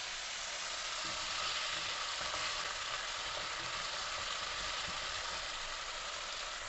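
Cubed potatoes and sliced onion sizzling steadily in hot oil in a non-stick kadai as they are stirred with a silicone spatula.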